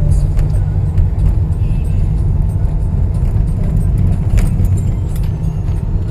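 Wind buffeting the phone's microphone on an exposed hilltop: a loud, steady low rumble.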